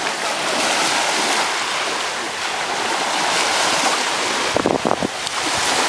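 Sea surf washing on the shore with wind noise on the microphone. A few short low thumps come about four and a half seconds in.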